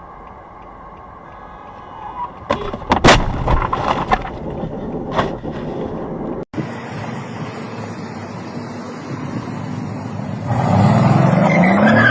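Dashcam recording of a car crash: steady road noise, then a cluster of sharp impacts from a couple of seconds in to about five seconds in. After a cut, steady road noise again, and near the end a car engine revving up, rising in pitch.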